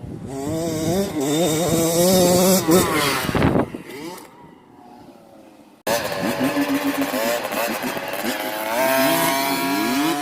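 Small dirt bike engines revving with a wavering pitch, then fading off about four seconds in. After an abrupt cut near the middle, engine sound returns with its pitch stepping up and down as the throttle and gears change.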